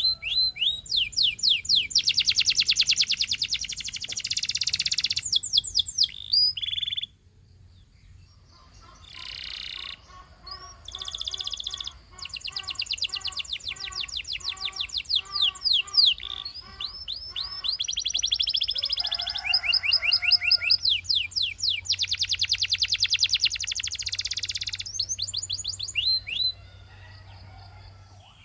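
Canary singing: fast trills of rapidly repeated notes and quick falling sweeps, delivered in long phrases, with a short pause about seven seconds in.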